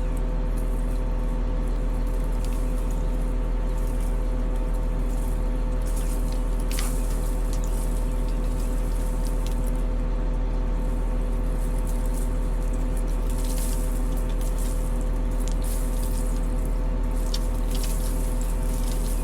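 Caterpillar 140M motor grader's diesel engine running at a steady speed, with a constant low hum and scattered short high ticks or scrapes.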